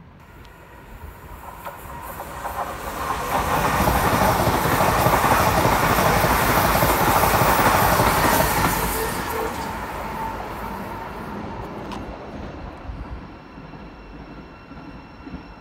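EMR Connect Class 360 electric multiple unit running through the station at speed without stopping: a rush of wheel-on-rail and air noise that builds over about four seconds, stays loud for about five seconds, then fades away.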